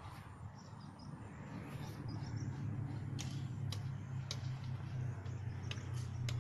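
Outdoor ambience: faint bird chirps over a low steady hum that swells after the first second or so, with a few sharp ticks in the second half.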